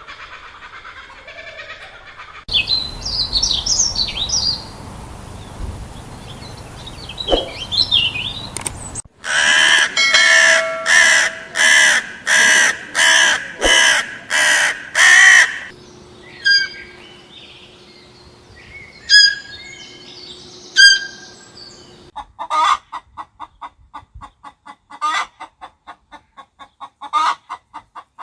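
A string of bird calls that changes abruptly several times. High chirping comes first, then a run of about ten loud calls roughly one a second, then scattered calls and fast trains of short pulses.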